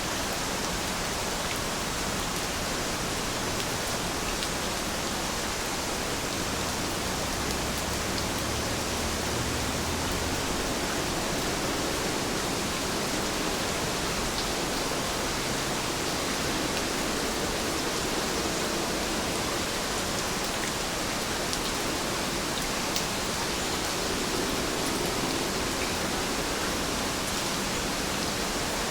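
Steady rainfall, a dense even hiss with faint scattered drop ticks.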